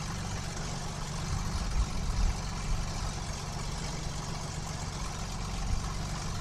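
KR2 light aircraft's piston engine idling steadily on the ground shortly after start-up.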